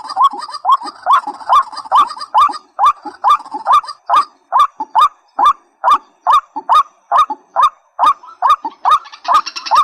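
Recorded rail calls, white-breasted waterhen and nok kai na: a short falling note repeated steadily about twice a second, with a higher buzzy chatter joining near the end.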